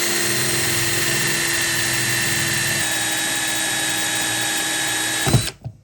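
Handheld electric power tool spinning up with a rising whine, running steadily under load for about five seconds, then stopping abruptly with a thump near the end as the motor winds down.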